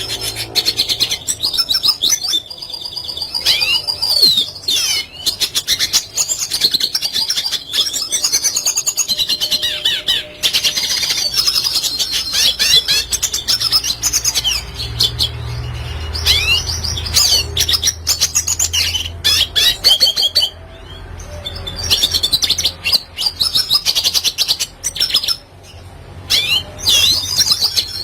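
Red siskin singing: a fast, unbroken run of twittering chirps, trills and rising and falling whistles, broken by a few brief pauses, over a faint low hum.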